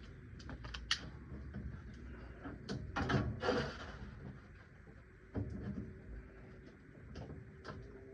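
Scattered clicks and knocks of hand tools and metal parts being handled, with a louder scraping rustle about three seconds in and a shorter one near the middle.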